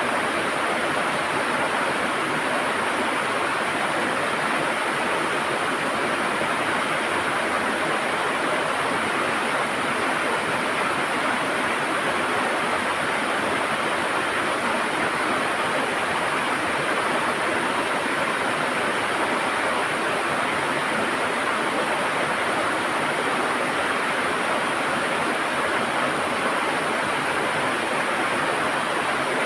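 A river running steadily, a constant gurgling rush of water with no breaks.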